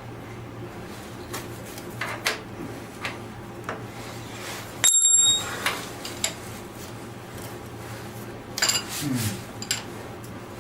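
Steel hand tools clinking on metal: a few light clicks and knocks, and about halfway through one short, bright metallic ring.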